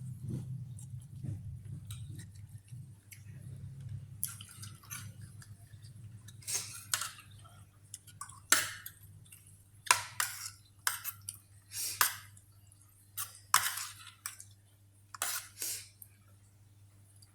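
A person eating: irregular short wet smacks and clicks from chewing and from utensils against the dish, about a dozen, coming more often in the second half.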